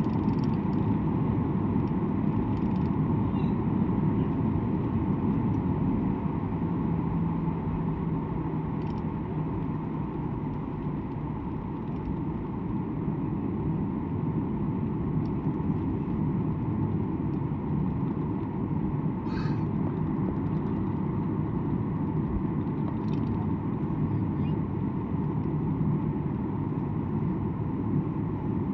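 Airliner cabin noise from the jet engines and airflow, heard from inside the passenger cabin: a steady low rumble with a faint hum, and a few faint clicks from the cabin.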